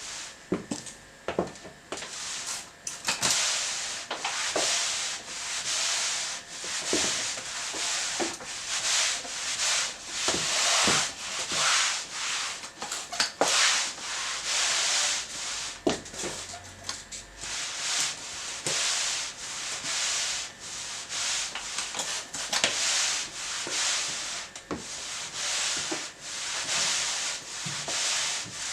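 Mop swished back and forth across a hard kitchen floor in repeated rubbing strokes about a second apart, with occasional sharp taps of high heels on the floor.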